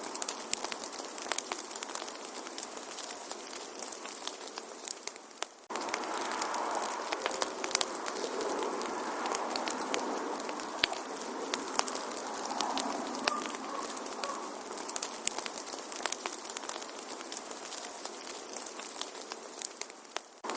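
Wood fire in a fireplace crackling, with frequent sharp pops and ticks over a soft steady hiss. The sound fades briefly and picks up again about six seconds in, and again near the end.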